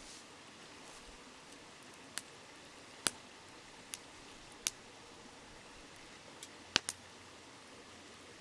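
Wood campfire crackling, with about seven sharp pops scattered through, two close together near the end, over the steady hiss of a flowing river.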